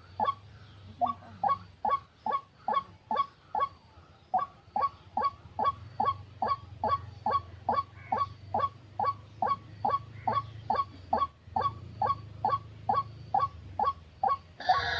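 White-breasted waterhen calls repeated monotonously at about two to three short notes a second, over a faint steady low hum. This is the bird's call used to lure waterhens into a trap.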